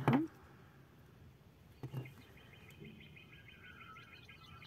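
Faint bird chirping in the background, as a quick repeated twitter in the second half, with a short soft sound at the start and a brief click about two seconds in.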